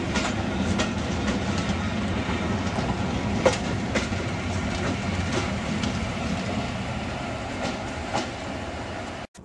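Railway passenger coaches rolling past at low speed, a steady rumble with irregular sharp clicks and clacks as the wheels run over rail joints and points.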